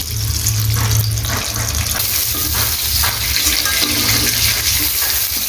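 Prawns sizzling in hot oil in an aluminium karahi, a steady hiss, with a few short scrapes of a spatula against the pan as they are lifted out.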